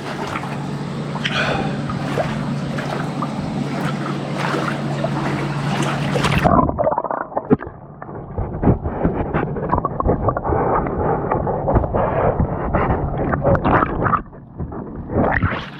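Water splashing and sloshing as a person moves in it, over a steady low hum; about six seconds in the sound turns abruptly duller and more crackly.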